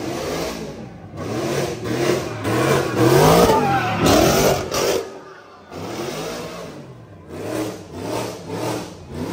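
Car engine revving hard: the pitch climbs and falls and is loudest around the middle, drops off briefly, then comes back as a series of short blips of revs near the end.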